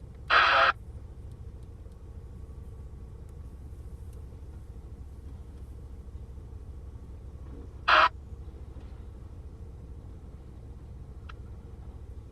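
Steady low rumble of a running vehicle engine, with two short loud noises, one right at the start and one about eight seconds in.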